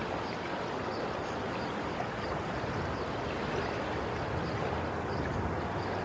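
Sea waves washing ashore in a steady, even rush, with faint high ticks about twice a second.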